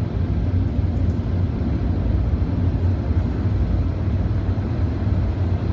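Automatic car wash machinery running, heard from inside the car as a steady low rumble with a hiss over it.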